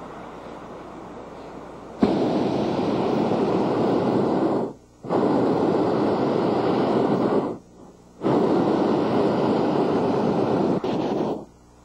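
Hot air balloon's propane burner firing in three long blasts, each a loud, steady rush of flame. It comes on about two seconds in, cuts out briefly twice, and stops near the end.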